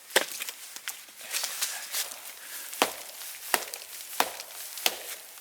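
Wood being chopped: sharp, hard strikes, several of them at a steady rhythm about two-thirds of a second apart, with smaller cracks and clicks in between.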